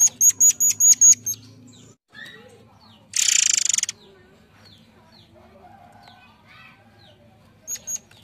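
Murai air songbird singing. It opens with a quick run of about seven sharp, high whistled notes. About three seconds in comes a harsh rasping burst lasting under a second, and two more high notes come near the end. Fainter chirps from other birds are heard between them.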